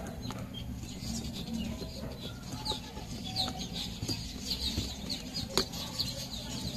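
Repeated short bird chirps over a low steady background hum, with a few sharp clicks from wires being handled.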